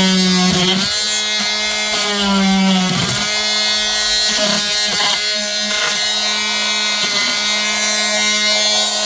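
Small electric power tool running with a steady buzz. Its pitch sags briefly under load several times, as it does when the tool bites into material.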